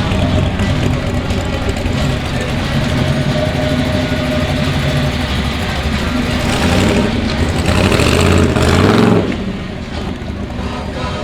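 Muscle car engine with a big, throaty cam, running with a choppy rumble as it rolls slowly. It gets louder for a couple of seconds, then drops off abruptly about nine seconds in.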